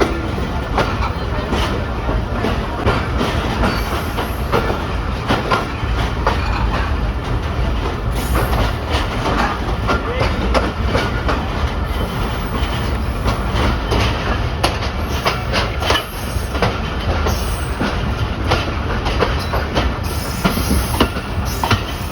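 Passenger train running along the track: steady rumble of the coaches with the clickety-clack of wheels over rail joints, and a light squeal from the wheels at times.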